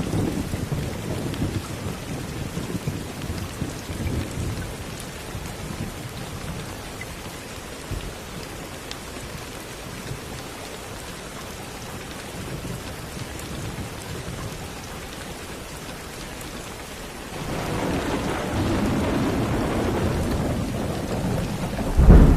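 Steady rain with rolling thunder. A low rumble fades away over the first few seconds, thunder swells again about seventeen seconds in, and a louder crack of thunder comes just before the end.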